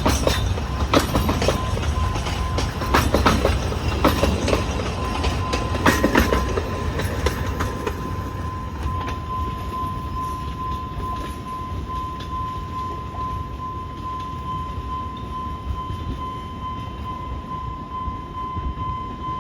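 Narrow-gauge Alishan Forest Railway train behind diesel locomotive DL-47 rolling past, its wheels clacking over rail joints for the first several seconds, then the sound fading as it moves away. A steady high tone sounds throughout.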